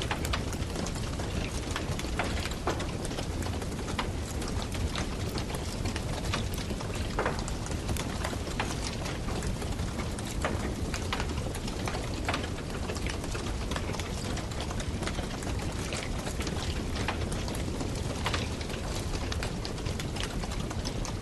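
Campfire burning, a steady hiss of the flames with irregular sharp crackles and pops of the burning wood.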